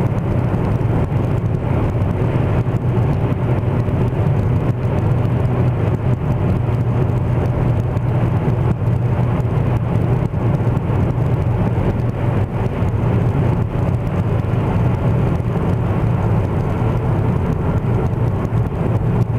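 Steady low drone inside an Opel Astra's cabin while driving with the windows shut: the unexplained howl the owner is trying to trace, separate from the engine's own sound.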